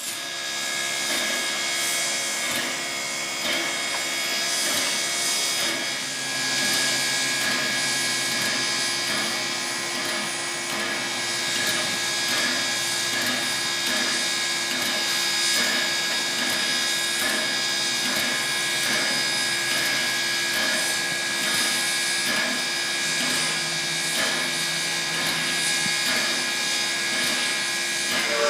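Wilmington & Western No. 98, a 4-4-0 steam locomotive, standing at rest with steam up, giving a steady hiss and whine.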